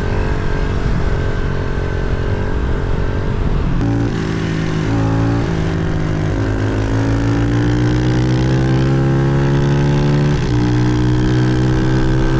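Small pit bike engine pulling through the gears. Its pitch climbs steadily and drops sharply at each upshift, about four, six and ten seconds in.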